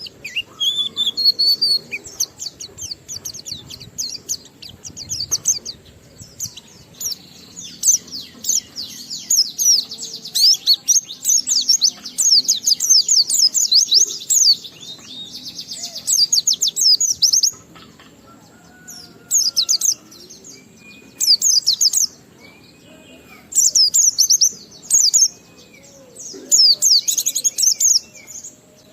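White-eye (pleci) singing a rapid, high twittering song in the continuous 'ngalas' style, one long unbroken run through the middle, then shorter bursts with pauses between. A few faint lower whistled notes come in during the pauses.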